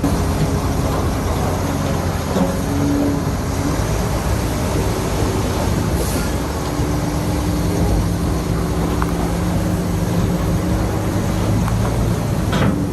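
Heavy diesel earthmoving machinery running hard, the engine's pitch shifting up and down as it works, with a sharp knock about six seconds in and another near the end.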